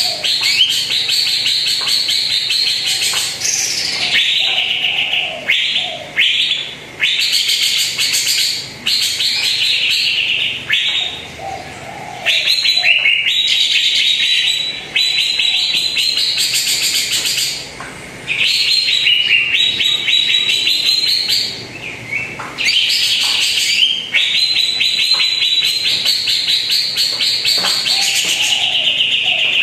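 Cucak ijo (green leafbird) singing: long, loud phrases of rapid, trilled high notes, each several seconds long, broken by short pauses.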